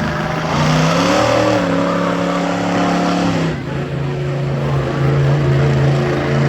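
Monster truck engine revving. The pitch climbs about half a second in, holds high, then drops to a lower steady run about halfway through.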